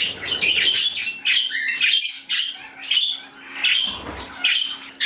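A mixed flock of pet parakeets and cockatiels chirping and squawking all at once, with many short calls overlapping.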